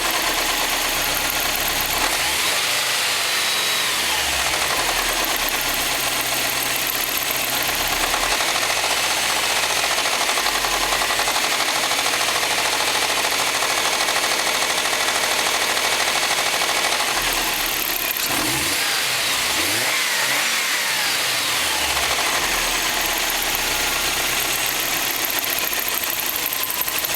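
Subaru STi engine running with a knocking noise that sounds like rod knock or piston slap but comes from a failing accessory belt tensioner. The revs rise and fall a couple of times, near the start and again a little past the middle.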